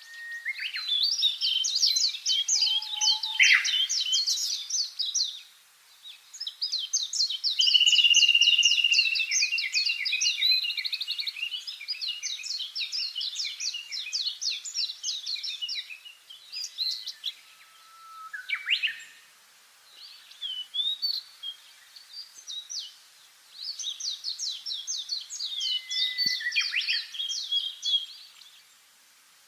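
Songbirds singing: several phrases of rapid, high chirping notes a few seconds long, with short whistled slides between them and brief pauses.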